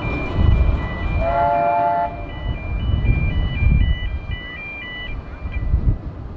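Narrow-gauge passenger carriages rumbling away over street-running track. About a second in comes a short chord-like whistle or horn blast, and a high electronic chime tune like an ice-cream van's plays over it.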